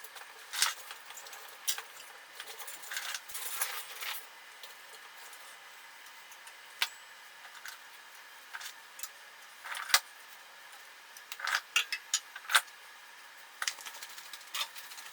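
Scattered light clicks, snaps and knocks of twigs and kindling being handled, with a cluster of sharper knocks past the middle, over a faint steady hiss.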